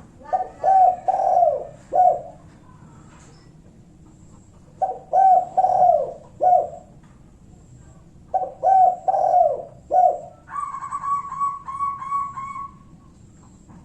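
Spotted dove (tekukur) cooing: three phrases of a few rounded coo notes each, a few seconds apart, the 'kuk satu' call type used as a lure to provoke rival doves to answer. Near the end a higher, rapidly pulsing trill runs for about two seconds.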